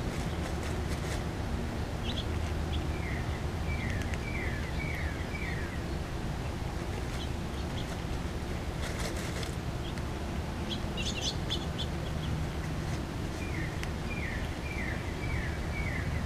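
A songbird singing a phrase of about five quick, repeated down-slurred whistles, twice, over a steady low outdoor rumble, with a few scattered faint clicks.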